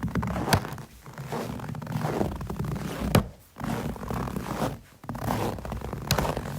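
Footsteps crunching through snow, each step a drawn-out crunchy scrape, with a few sharp clicks about half a second in, around three seconds and near the end.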